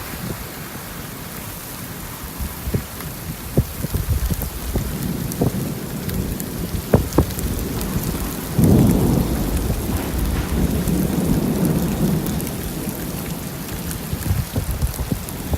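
Rain falling, with scattered sharp drop hits. A low rumble of thunder comes in suddenly about eight and a half seconds in and fades over several seconds.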